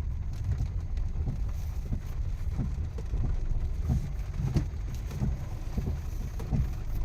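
A car driving, with a steady low rumble of engine and tyres and a few faint knocks.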